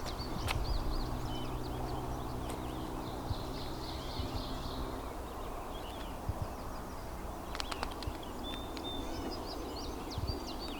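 Songbirds chirping and singing over a low rumble, with a steady low hum in the first half and a few sharp clicks about seven and a half seconds in.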